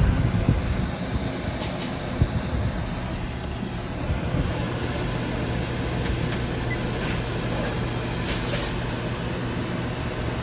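Steady low hum of a motor vehicle running, heard from inside, with a few faint clicks.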